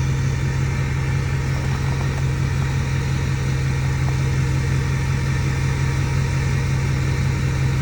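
Ford 6.4 Powerstroke V8 turbo diesel idling steadily after a drive. It is a steady low drone that does not change. The owner diagnoses a bad turbo seal on this engine, leaking oil into it.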